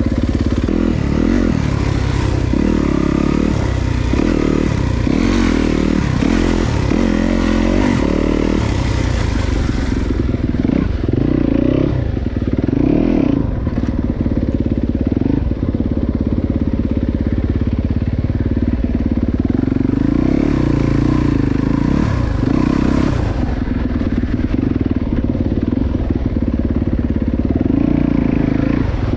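Enduro dirt bike engine revving up and down as the bike is ridden along a muddy trail, the throttle opening and closing every second or so.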